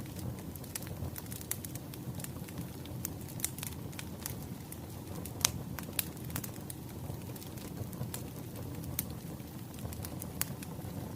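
Wood fire crackling: scattered sharp pops and snaps over a low, steady rumble of burning logs, with one louder pop about five seconds in.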